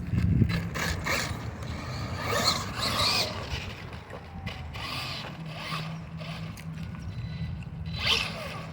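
Radio-controlled monster truck driving, its motor and gears whirring steadily with rattles and scuffs of the truck over the ground, busiest in the first few seconds and again near the end.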